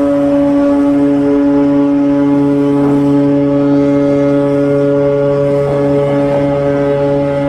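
A ship's horn blowing one long, steady, unchanging note.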